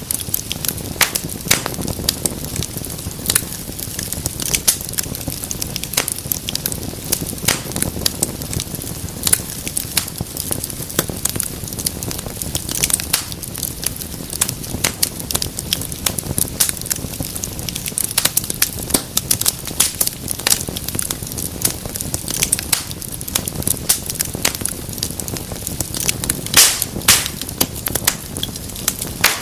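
Wood fire in a fireplace crackling, with a low steady rumble of flame under dense, irregular sharp pops and snaps.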